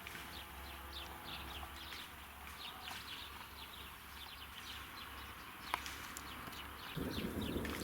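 Small songbirds chirping outdoors, many short falling chirps overlapping. Near the end a low rumble comes in suddenly and grows louder.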